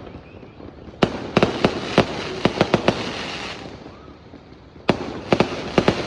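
New Year fireworks and firecrackers cracking in rapid volleys. A dense run of sharp bangs starts suddenly about a second in and dies away, then another volley breaks out near five seconds.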